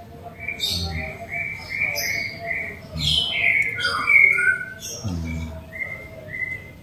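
A songbird singing: a quick run of short, repeated whistled notes, then several notes sliding downward about three seconds in, and a few more short notes near the end.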